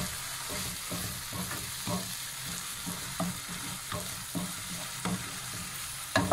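Minced beef, onion, tomato and potato frying in a nonstick pan, sizzling steadily, while a wooden spatula stirs and scrapes through it in strokes about twice a second. A louder knock comes at the very end.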